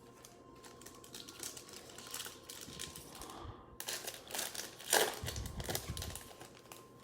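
A trading-card pack's wrapper being torn open and crinkled, with the cards handled, making a run of irregular rustles and clicks; the loudest rustle comes about five seconds in.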